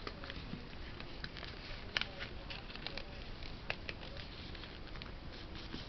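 A sheet of paper being folded and creased by hand: faint, irregular rustling and crinkling, with a few sharper crackles.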